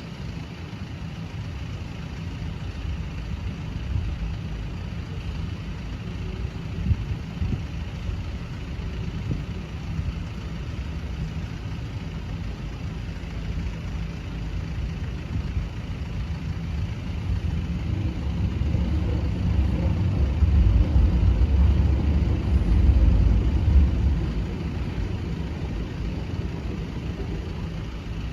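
Road vehicle engines running steadily, with a heavier, louder vehicle passing close by about twenty seconds in.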